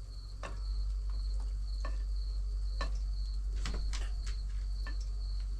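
Scattered light knocks and clinks of cookware and utensils, about six in all, over a steady low hum and a faint, pulsing high-pitched whine.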